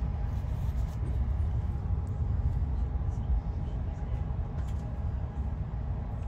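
Steady low rumble of a moving Amtrak passenger train heard from inside the coach, with a faint steady tone above it and a few faint clicks.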